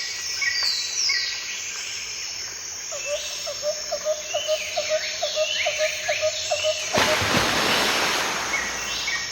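Tropical forest chorus of birds and insects: repeated short high chirps and sliding whistled calls, joined about three seconds in by a quick series of about a dozen low hooting notes, roughly three to four a second. About seven seconds in, a loud hiss covers everything for about two seconds.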